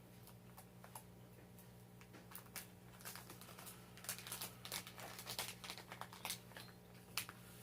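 Faint crinkling and scattered small ticks of a packet of seeds being opened and handled, over a steady low hum.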